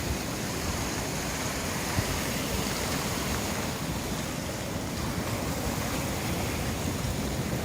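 Big sea waves breaking and washing onto the beach, a steady rushing surf noise.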